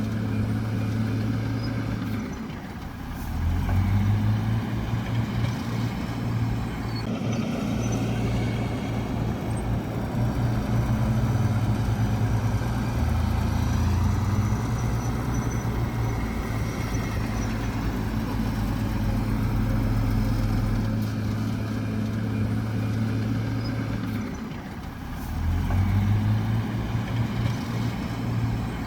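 Heavy diesel earthmoving machinery running steadily under load. The engine note drops twice, about three seconds in and near the end, each time picking up again a moment later.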